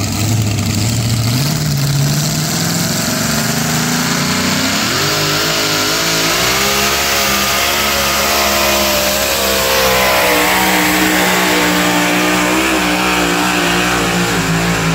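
Alcohol-burning two-wheel-drive pulling truck's engine running hard under load. Its pitch climbs sharply about five seconds in, then holds high and wavers.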